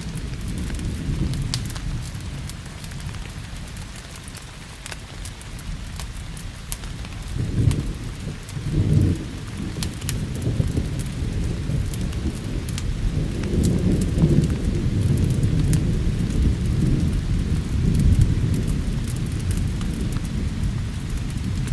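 Steady rain with low rolling thunder that swells about seven seconds in and again through the middle, over scattered sharp crackles of a wood fire in a fireplace.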